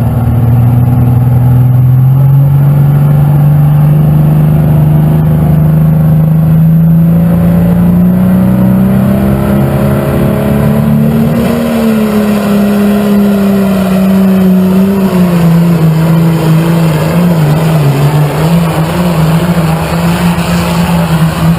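New Holland pulling tractor's engine running at full throttle through a pull. Its pitch climbs steadily for about ten seconds, then slowly sags and wavers, dropping further near the end.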